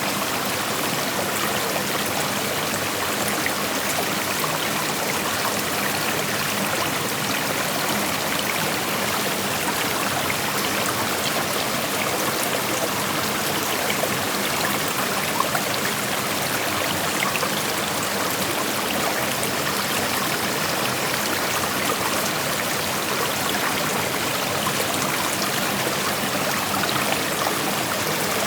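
Creek water flowing steadily over rocks: a constant rushing with small splashes and trickles mixed in.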